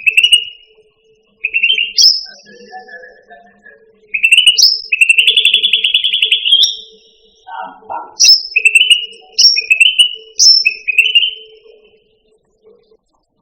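Cucak ranti bird singing: loud, repeated whistled phrases, each a short high note dropping into a lower clear whistle, with a long trilled whistle about five seconds in and a brief lower squeaky call near the middle.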